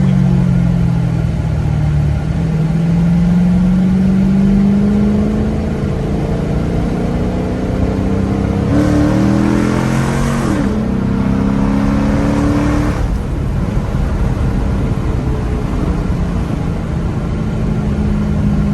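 2006 Dodge Charger R/T's Hemi V8 through a straight-piped exhaust with the catalytic converters still on, droning steadily while driving, its pitch slowly rising and falling with speed. A rushing hiss swells for a few seconds near the middle while the pitch climbs.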